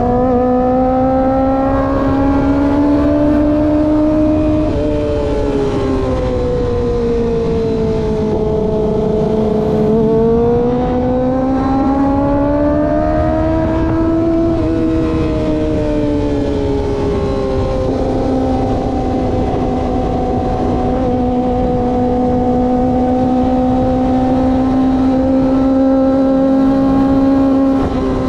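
Kawasaki ZX-25R's 249 cc inline-four engine heard from the bike while cruising. The note drops and climbs twice as the throttle is eased off and opened again, then holds steady for the last ten seconds, over wind and road rush.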